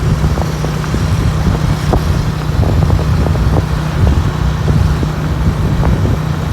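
Motorcycle riding along at a steady speed: a constant low engine drone under dense road rumble with scattered small knocks.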